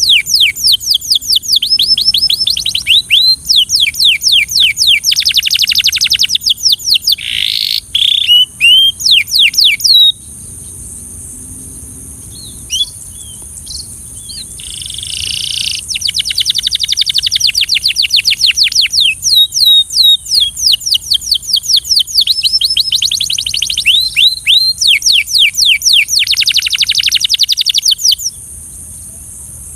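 Belgian canary singing long phrases of rapid trills and quick sweeping notes. It breaks off about a third of the way in, gives a few scattered notes, then sings again until near the end, over a steady high hiss.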